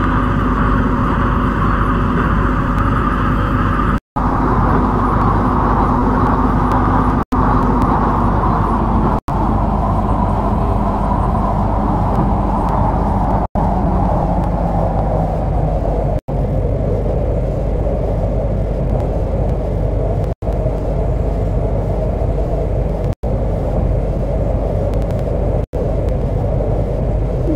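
MTR C-Train electric multiple unit running on the track, its traction motor whine falling steadily in pitch as the train slows. The sound cuts out for an instant eight times.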